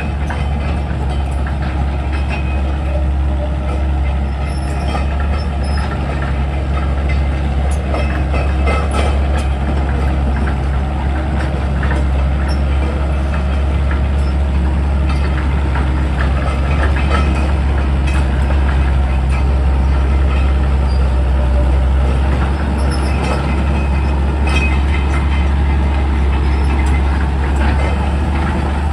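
Excavator's diesel engine running steadily with a deep, constant hum, with scattered clanks and knocks from the machine at work over it.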